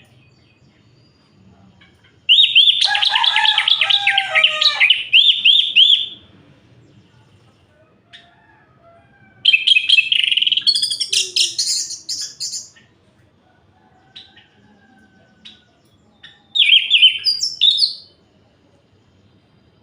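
Orange-headed thrush singing: three separate bursts of rapid, varied whistled phrases a few seconds apart. The first burst is the longest, about four seconds, and the last is the shortest.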